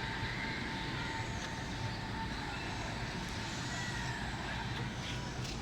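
Steady road traffic noise: a low, continuous rumble of vehicle engines and tyres.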